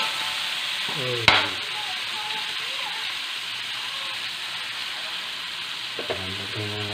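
Chicken gizzards sizzling steadily in hot oil with onions and garlic in a steel wok as they are stirred with a metal ladle. There is one sharp knock about a second in.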